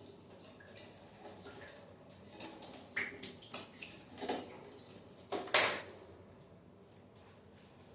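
Irregular knocks, clicks and clatters of objects being handled, the loudest clatter about five and a half seconds in.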